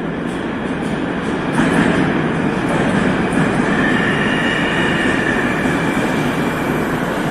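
Moscow Metro train moving alongside the platform: a loud, steady rumble of wheels and running gear that swells about a second and a half in, with a faint high whine through the middle.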